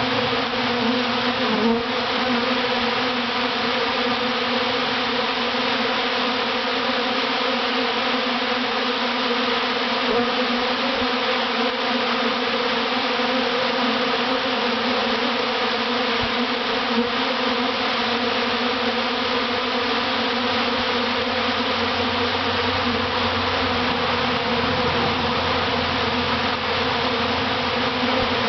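Dense, steady buzzing of a large honey bee swarm moving into a hive box, many wingbeats blending into a loud hum with bees flying close.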